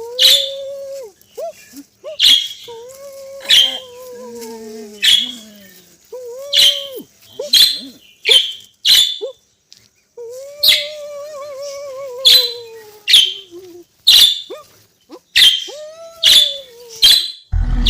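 Animal calls: sharp high chirps repeating roughly once a second, between long drawn-out wavering calls that rise and sag in pitch.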